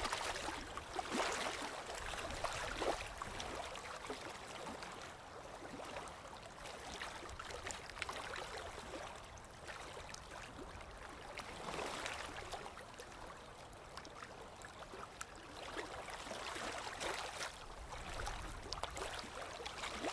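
Ocean surf washing in, swelling and easing in slow surges every few seconds.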